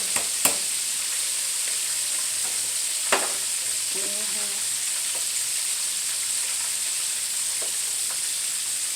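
Chicken wings deep-frying in hot oil in a wok: a steady sizzle, with a few sharp clicks just after the start and one more about three seconds in.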